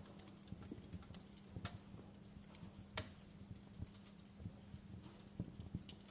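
Wood fire crackling in a fireplace: irregular sharp pops and snaps, the loudest about three seconds in, over a faint steady low hum.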